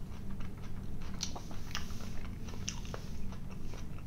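A person chewing a mouthful of sausage close to the microphone, with scattered wet mouth clicks and smacks.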